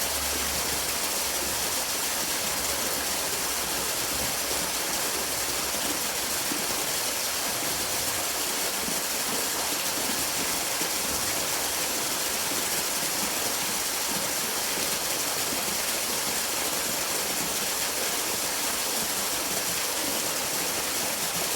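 Steady rushing hiss of running water, with no breaks or rhythm.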